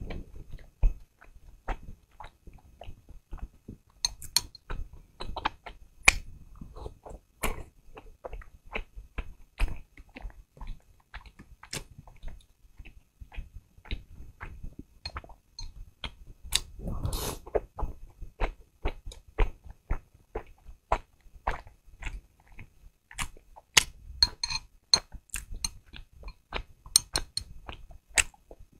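Close-miked eating sounds of meat-filled soup dumplings dipped in chili sauce: many short wet clicks of chewing and biting, with one longer, louder noise about 17 seconds in.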